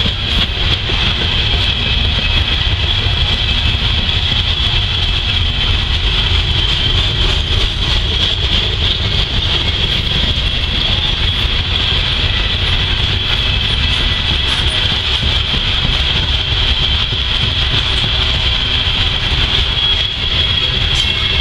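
CSX coal train's hopper cars rolling steadily past on the rails: a continuous loud rumble of wheels on track, with a steady high-pitched whine over it.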